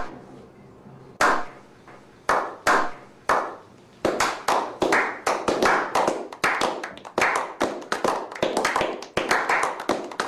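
A slow clap by a small group of people. First a few single hand claps, spaced about a second apart, then from about four seconds in several people clap together, faster and denser.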